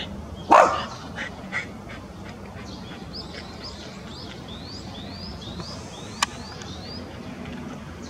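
A single loud, harsh call or bark about half a second in. After it, a small bird gives a run of short rising chirps, about three a second, with one sharp click partway through.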